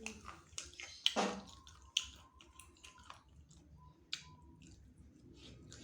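A person eating spicy chicken wings close to the microphone: wet chewing with many short smacking clicks, loudest about a second in.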